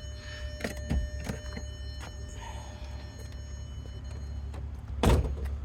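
2004 Volkswagen R32's 3.2 VR6 engine idling with a steady low rumble through its Borla cat-back exhaust, with scattered clicks and a sharp thunk about five seconds in.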